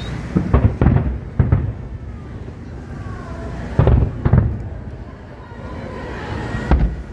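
Aerial fireworks bursting: a quick cluster of booms in the first second and a half, two more about four seconds in, and a last one near the end, each followed by rolling echo.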